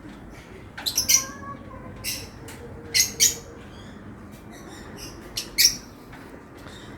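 Lovebirds giving short, shrill chirps, singly and in quick pairs, every second or two.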